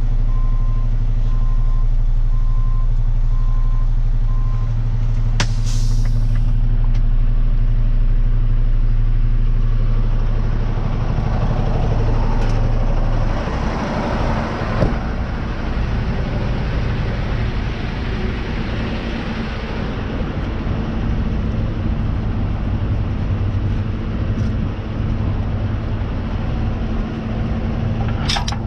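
Tow truck engine running steadily, its reverse beeper sounding until about five seconds in, then a short sharp hiss of air like air brakes being set. From about ten seconds in a louder rushing noise builds and the engine note changes.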